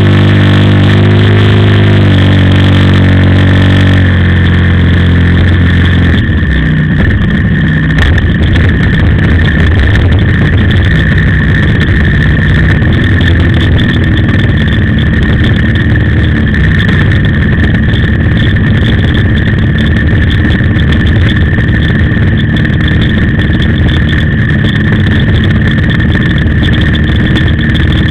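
OS FS-56 four-stroke glow engine of an RC plane, heard close up on the airframe. It runs strong and steady, is throttled back about four seconds in, and from about six seconds runs lower and rougher at reduced throttle.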